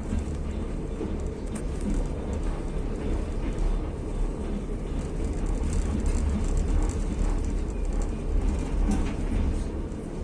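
Passenger train carriage running along the track, heard from inside the carriage: a steady low rumble of wheels on rails with a few faint clicks.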